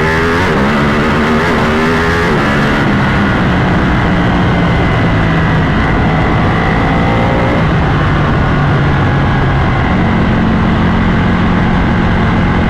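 Ducati motorcycle engine accelerating away, its pitch climbing over the first couple of seconds, then running steadily at cruising speed under a steady rush of wind.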